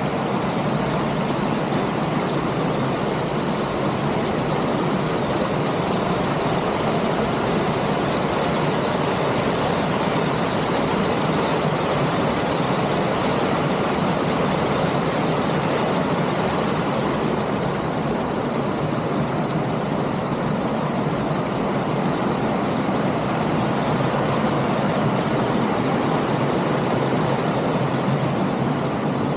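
Steady rushing noise of wind over an action camera's microphone and tyres rolling while riding a bike, even throughout.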